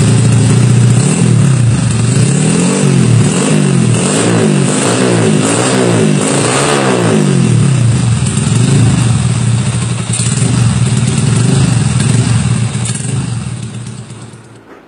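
Honda CBR sport motorcycle engine running through an aftermarket stainless racing exhaust, revved in a series of quick throttle blips over a steady idle. The sound fades out near the end.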